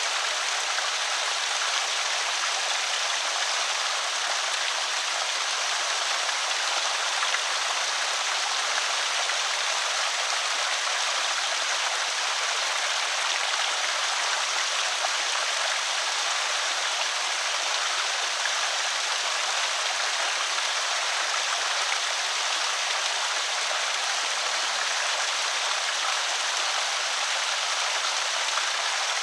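Creek water spilling over a small spillway: a steady, even splashing and trickling flow.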